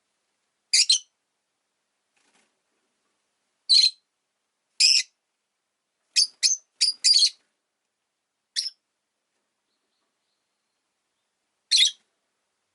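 Rosy-faced lovebird giving short, sharp, high-pitched chirps, about nine in all: single calls and a quick run of four in the middle, with silent gaps between.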